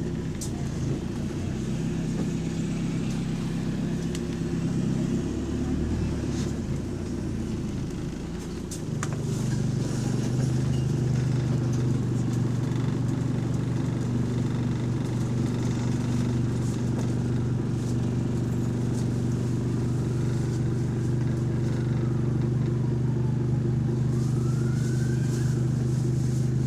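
Bus diesel engine heard from on board, running unevenly at first, then picking up under load about nine seconds in and running steadily after that. Near the end a faint whistle rises and falls twice; the bus's turbocharger is said to be bad.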